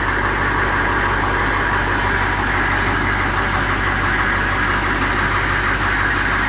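A Ricon wheelchair lift's electro-hydraulic pump motor runs steadily as the platform is raised back up.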